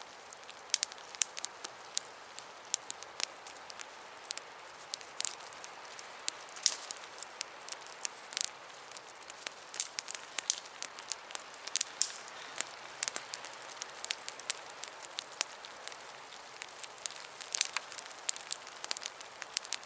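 Campfire of damp branches burning, with irregular sharp pops and crackles over a steady hiss.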